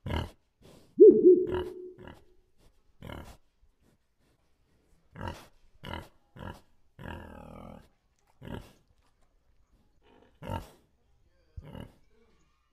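Wild boar grunting and snuffling as it roots in leaf litter: short separate grunts at irregular intervals, with one louder pitched call about a second in.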